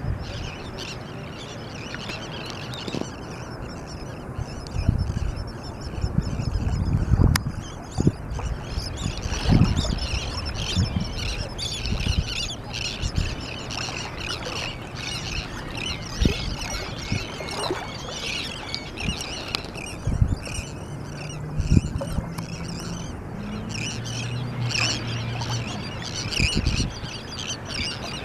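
A feeding flock of terns and gulls calling constantly in a dense chatter of short, high, harsh cries, with scattered low thumps underneath.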